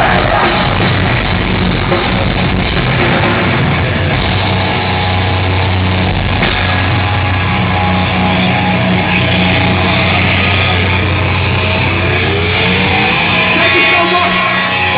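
Live heavy metal band playing loud, with distorted guitars, bass and drums; a low note is held through much of it, with rising guitar slides near the end.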